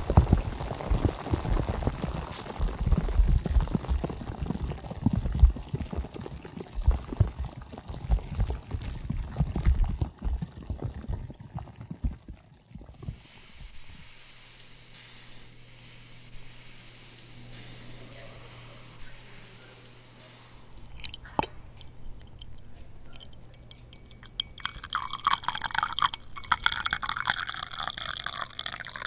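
Hot-spring bath water bubbling and splashing for about the first thirteen seconds. It then gives way to a quieter, steady low hum, with a single click about 21 seconds in and irregular dripping water near the end.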